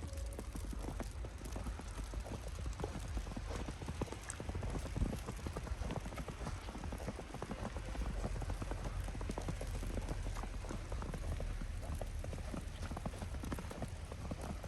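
Footsteps in snow, an irregular run of short crunches, with wind buffeting the microphone as a steady low rumble.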